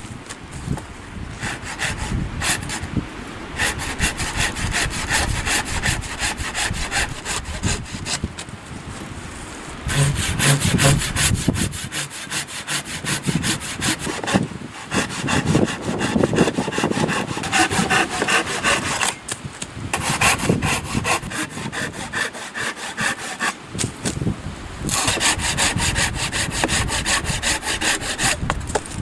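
Hand saw cutting through a hard, dense cherry-wood driftwood log in quick back-and-forth strokes, in several bouts with short pauses between them.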